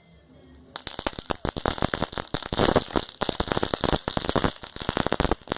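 Small firecrackers going off in a dense, irregular run of sharp pops, starting about a second in and lasting about five seconds before stopping suddenly.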